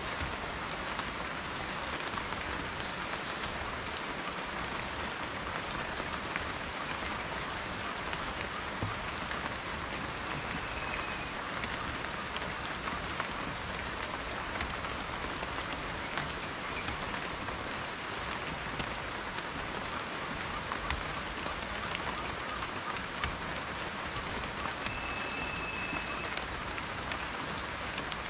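Steady rain falling, with scattered individual drops ticking on a surface. A faint, short, high steady tone sounds twice.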